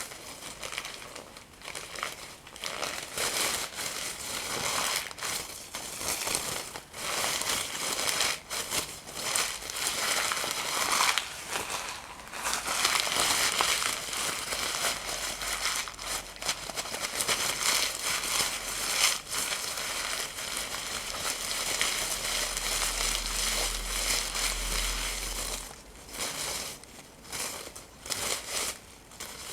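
Paper being crumpled and torn: continuous crinkling and ripping, densest through the middle stretch.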